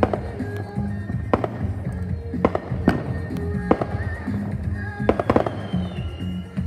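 Fireworks going off in about eight sharp, irregularly spaced bangs, over background music with a heavy bass.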